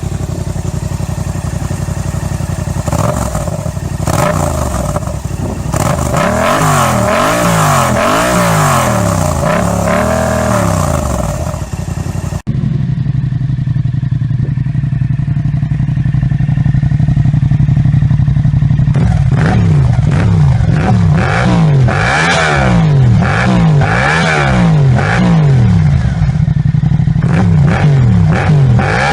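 Yamaha MT-07's parallel-twin engine through an aftermarket exhaust, revved in repeated quick blips, each rising and falling in pitch. About twelve seconds in the recording cuts to another MT-07 idling steadily, which is then blipped repeatedly again from about nineteen seconds.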